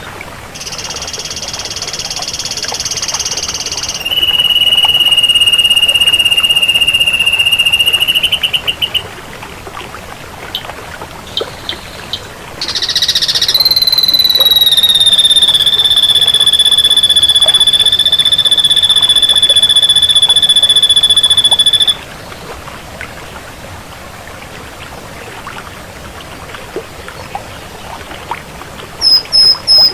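Ashy drongo song: a buzzy high note held for about three seconds, then a long, steady, high note that breaks into a stutter at its end. After a pause comes a still longer, steady note lasting about nine seconds, which dips slightly in pitch at its start, and a run of quick, sharp notes near the end.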